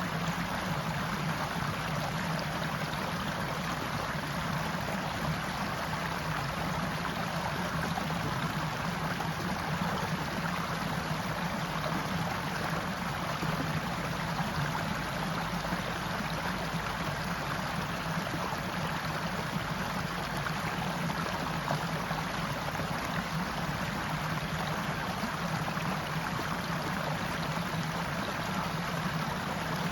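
Forest stream flowing steadily, an even rush of water with no breaks.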